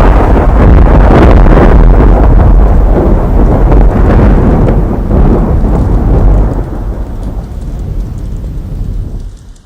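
Model train of the JR 215 series running on its track close to the microphone: a loud, dense rumble that thins and fades away over the last few seconds.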